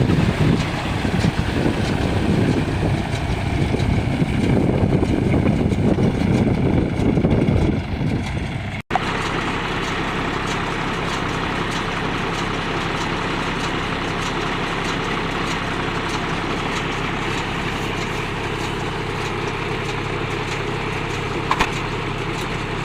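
Diesel tractor engine running under work. About nine seconds in the sound cuts abruptly to a steadier, even engine note.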